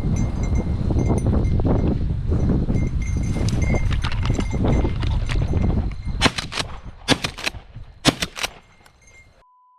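Wind buffeting the microphone with rustling from walking through field cover. About six seconds in, several sharp clattering bursts follow in quick clusters. Near the end the sound cuts out to a short steady beep, like a censor bleep.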